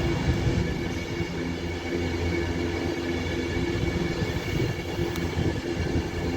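A train at a station platform, its engine or traction equipment giving a steady low hum with a droning tone that holds unchanged throughout.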